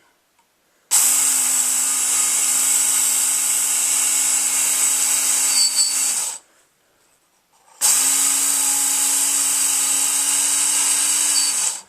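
Work Sharp electric belt sharpener running with its coarse red belt grinding an AUS-8 steel knife edge, in two passes of about five and four seconds, each starting and stopping abruptly. A steady motor hum sits under a harsh high grinding hiss with a steady high squeak, which the owner puts down to the belt wearing out.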